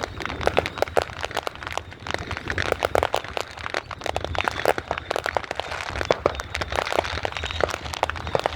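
Fireworks crackling: a dense, irregular run of sharp cracks, many a second.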